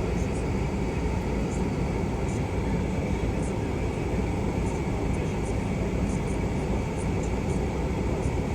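Steady low rumble and fan hiss inside a closed truck cab, from the truck's engine idling and its air-conditioning fan running.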